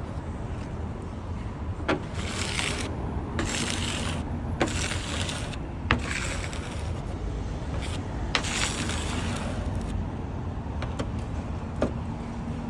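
A magnet being scraped and rubbed across a dust-covered surface in about five separate strokes, each starting with a small click as it touches down, over steady low traffic hum.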